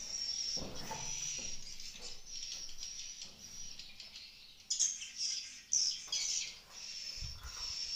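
Swiftlets chirping: a steady run of high, repeated twittering calls, with louder bursts of chirping in the middle and a low bump near the end.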